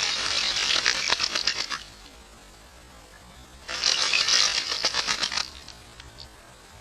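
A bird's rapid chattering call, given twice, each burst lasting about two seconds with a pause of about two seconds between.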